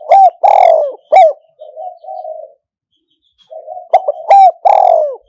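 Spotted dove decoy bird cooing, loud and close: a phrase of low coos with two or three sharp, loud notes in the middle. After a pause of about a second the phrase begins again.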